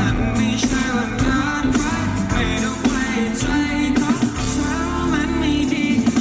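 Live pop-rock band playing, with a sung melody over a steady bass line and regular drum hits.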